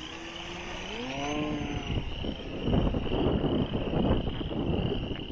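Wind buffeting the microphone in uneven gusts from about two and a half seconds in, over a steady high insect chirring. A brief rising motor-like tone sounds about a second in.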